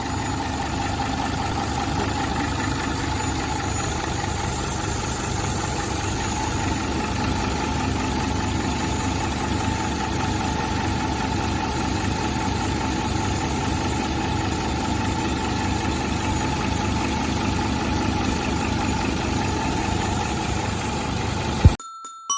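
Diesel engine of a Nissan Condor dump truck, a J07E, idling steadily with an even low pulse. The sound cuts off abruptly near the end, and a few chime-like musical notes follow.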